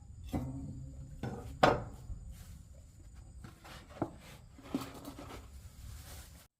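Several sharp knocks and clatters of objects being handled over a low steady rumble, the loudest about a second and a half in; the sound cuts off suddenly at the end.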